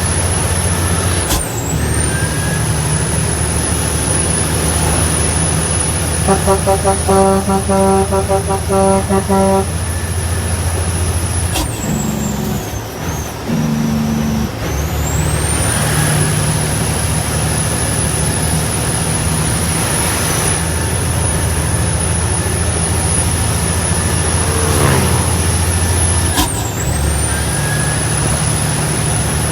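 Heavy truck's diesel engine running under way, its note and a high whine dropping and recovering three times as gears are shifted. About six seconds in, a rapidly pulsing tone with several overtones lasts about three seconds.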